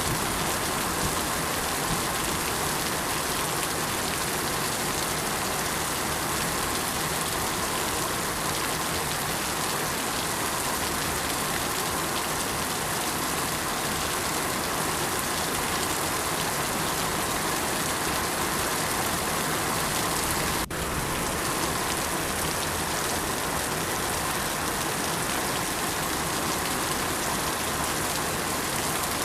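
Steady rain falling, an even hiss of many raindrops with no single drops standing out. A momentary dip in the sound comes about two-thirds of the way through.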